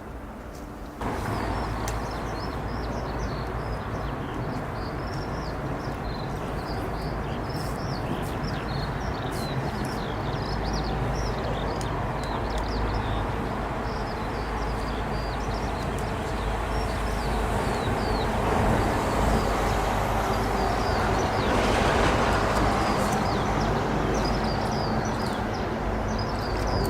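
Jet airliner engines at an airport, a steady rumble that begins abruptly about a second in and grows louder, peaking a few seconds before the end. High chirps sound over it throughout.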